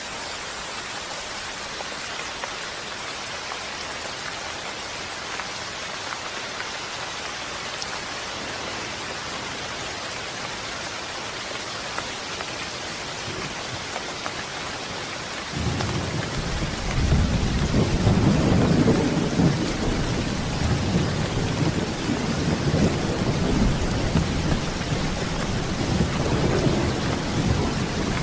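Steady rain falling, an even hiss. About halfway through, a long, low rumble of thunder comes in suddenly and rolls on, loudest a few seconds after it begins.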